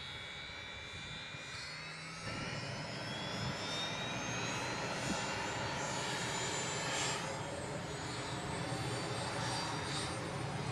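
Mi-8 helicopter's turbine engine starting up: a whine that slowly rises in pitch as the turbine spools up, with the sound stepping up in loudness about two seconds in.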